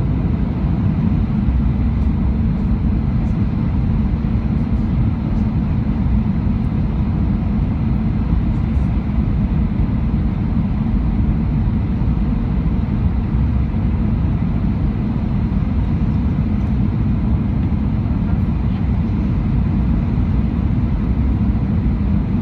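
Airliner cabin noise inside an Airbus A319 with CFM56 turbofans: a steady low rumble of engines and airflow, with a few faint steady tones above it and no change in level.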